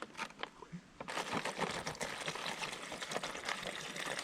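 Liquid pouring steadily from about a second in, with a dense light crackle through it.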